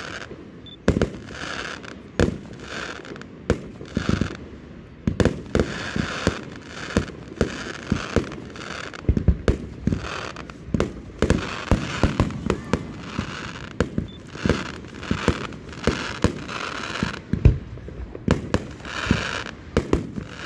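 Aerial fireworks display: a rapid, irregular series of sharp bangs from bursting shells, often several a second.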